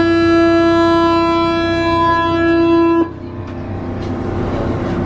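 Paris Metro door-closing warning buzzer sounding one steady tone for about three seconds and cutting off suddenly, the signal that the train's doors are about to close before departure. A low rumble of the train runs underneath and carries on afterwards.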